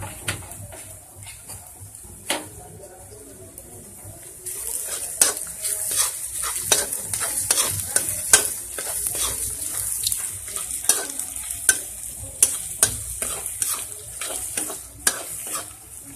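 Onions and freshly added ginger-garlic paste frying in oil in a kadai, stirred with a spatula. A sizzle runs under frequent scrapes and clicks of the spatula against the pan, and the sizzle grows louder about four seconds in.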